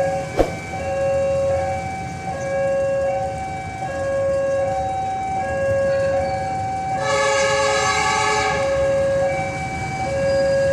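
Level-crossing warning alarm sounding a steady two-note alternating signal over a low rumble, with a sharp click just after the start. About seven seconds in, the horn of the CC 201 diesel locomotive sounds one blast lasting about a second and a half.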